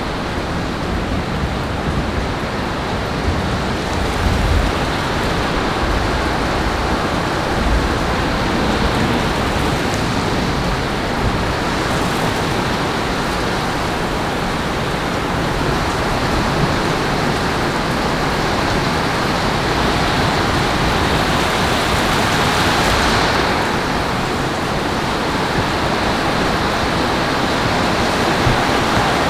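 Heavy rain falling in a thunderstorm, a steady hiss, with low rumbles of thunder in the first several seconds.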